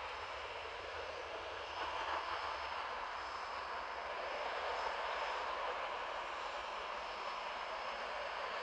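Airliner jet engines running: a steady rushing noise with a faint high whine.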